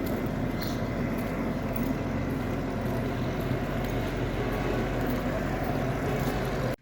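A motor vehicle's engine running steadily close by, with road noise. It cuts off abruptly near the end.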